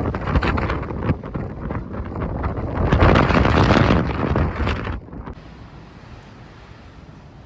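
Strong wind buffeting the microphone in loud, uneven gusts. About five seconds in it drops abruptly to a much quieter, steady rush.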